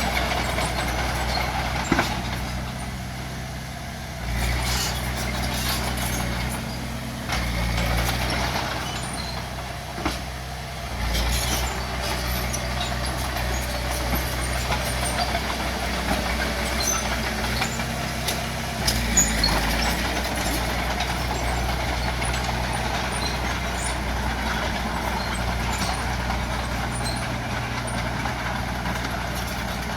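Bulldozer's diesel engine running under changing load, rising and falling in level several times, with a few sharp metal knocks.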